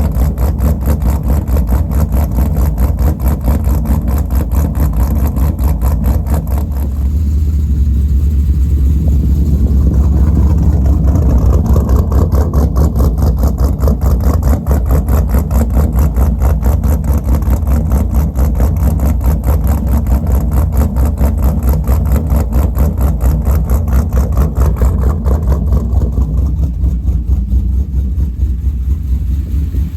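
Pontiac G8 GT's stroked 6.6 L V8 with a BTR Stage 3 PDS camshaft running on its cold start, idling with a loud, even pulsing lope. Its pitch and fullness rise a little around 7 to 12 seconds in.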